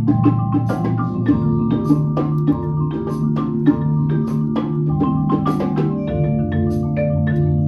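Percussion ensemble playing on marimbas and other mallet percussion: quick struck notes over steady low held notes, with sharper clicks like wood block hits mixed in.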